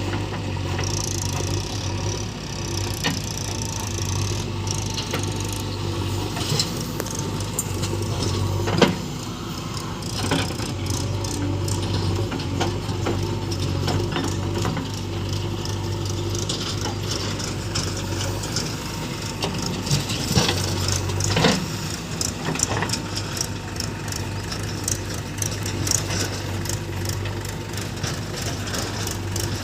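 Diesel engine of a Mahindra tractor running steadily at work, with scattered metallic clanks and rattles; a sharp knock stands out about nine seconds in, with more knocks around twenty seconds in.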